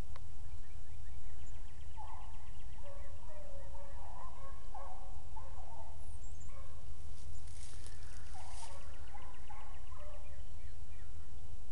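A pack of beagle hounds baying on a rabbit's track, a run of repeated calls for several seconds, a short break, then more calls, over a steady low rumble.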